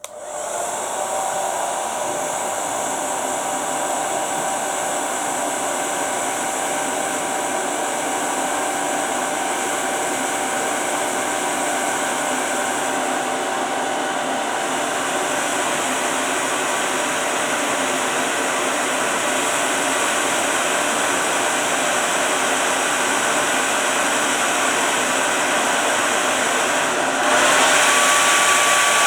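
Hairdryer blowing steadily onto an aluminium fidget spinner, its airflow noise carrying a thin steady whine from the spinning spinner. About two seconds before the end the sound steps up louder and the whine shifts higher.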